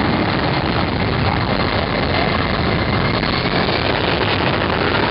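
Boeing C-17 Globemaster III's four Pratt & Whitney F117 turbofan engines running: a loud, steady jet noise with a faint high whine.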